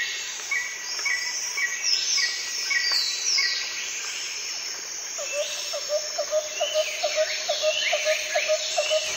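Birds calling: a run of short repeated chirps in the first few seconds and several falling whistles, then a quick series of low notes, about three a second, through the second half.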